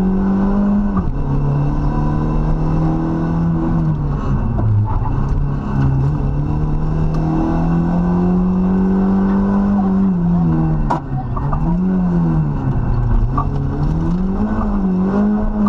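Rally car engine heard from inside the cabin under hard driving. It drops in pitch at an upshift about a second in and climbs steadily, then falls and picks up again several times near the end as the driver lifts and gets back on the throttle, with a single sharp click in the middle of that stretch.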